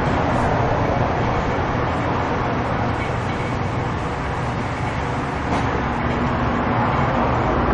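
A machine running steadily, a dense, even noise with a low hum underneath.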